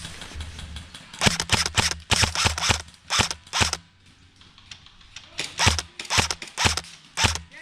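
Airsoft guns firing: quick, uneven strings of sharp cracks in two spells, from about a second in and again past five seconds.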